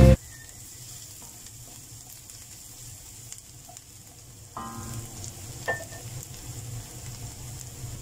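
Minced garlic and onion sizzling softly in oil in a frying pan, stirred and pushed around with a wooden spatula, with a light tap partway through.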